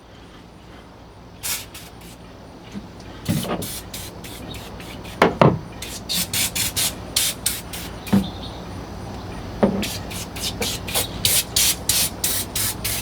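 Aerosol can of degreaser foam sprayed in repeated short bursts, coming about one to two a second through the second half, with a few knocks in between.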